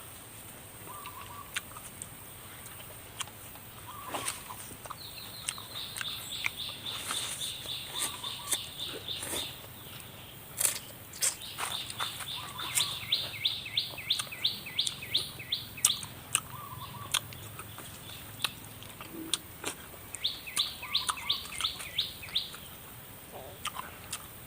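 Songbirds calling: three bouts of fast, high trills of many evenly spaced notes, with short lower chirps repeated every few seconds between them. Scattered sharp clicks are mixed in.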